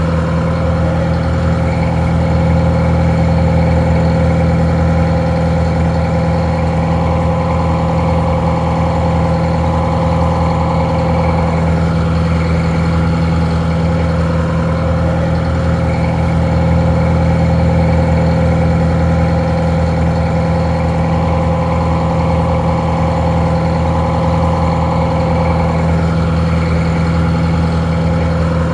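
Detroit Diesel 4-71 two-stroke diesel engine idling steadily, a deep even drone. The engine powers a winch, and the sound is slightly muffled.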